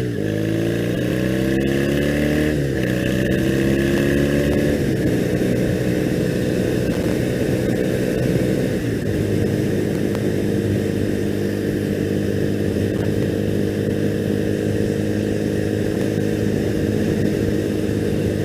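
Triumph Bonneville motorcycle's parallel-twin engine accelerating through two upshifts in the first five seconds, its pitch rising and dropping back at each shift, then running steadily at cruising speed.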